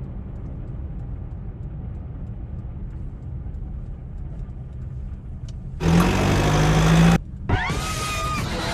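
Car driving with a steady low rumble. About six seconds in comes a loud burst of noise lasting just over a second that cuts off abruptly, followed by more loud noise with short whistling pitch glides.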